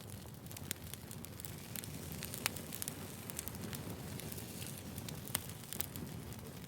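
Wood fire burning: a steady low rush of flames with frequent crackles and sharp pops, two of them louder.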